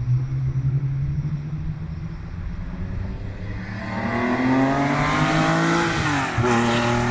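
Porsche 914-6 GT tribute's air-cooled flat-six engine accelerating as the car approaches and passes, the note climbing and growing louder from about halfway through. About six seconds in the pitch drops sharply and then picks up again.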